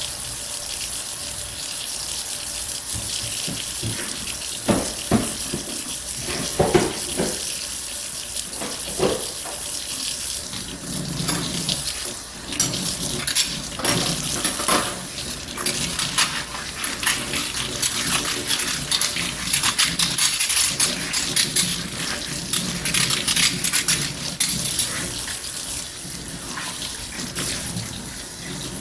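Dishes being washed by hand at a sink: a tap runs steadily, with sharp clinks and knocks of dishes several times between about 4 and 9 seconds in, and busier splashing and handling after that.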